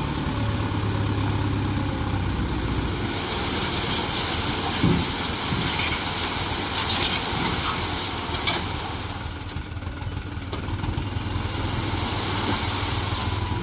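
Dump truck's diesel engine running steadily, with a broad rushing noise over it for several seconds in the middle.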